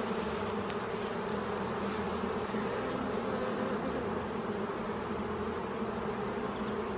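Honeybee colony buzzing steadily from an opened hive, a dense hum of many bees.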